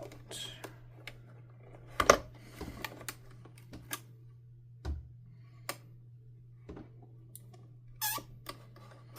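Irregular clicks and knocks of plastic vacuum-cleaner housing parts being handled and pried at, as tabs holding a part in are worked loose; the loudest knock comes about two seconds in.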